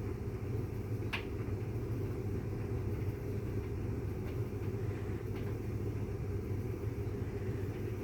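Bosch tumble dryer and Miele W360 washing machine running: a steady low mechanical rumble and hum, with a few faint knocks, the clearest about a second in.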